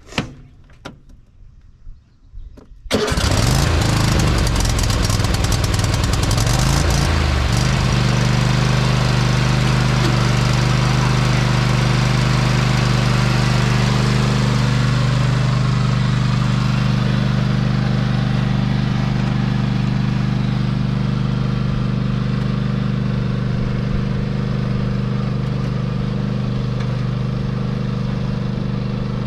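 Cub Cadet LT50 riding lawn mower's engine starting about three seconds in after a few light clicks. Its pitch climbs unevenly for a few seconds as it revs up, then it settles into a steady run.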